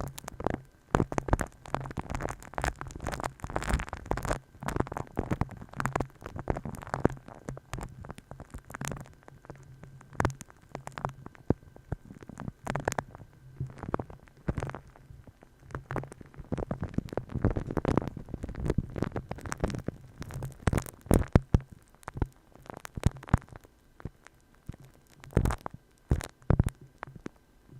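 Close-miked ASMR tapping and rubbing on or at the microphone: a dense, irregular run of soft taps and clicks mixed with scratchy rubbing strokes.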